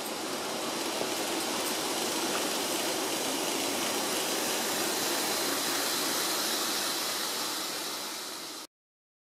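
An N-gauge model Kiha 81 series diesel railcar train running on its track: a steady whirring rush of motor and wheels that swells a little, then eases. It cuts off abruptly near the end.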